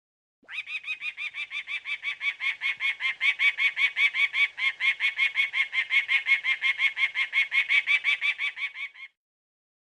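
A domestic fowl calling in a fast, even run of short calls, about six a second, for some eight seconds before stopping abruptly.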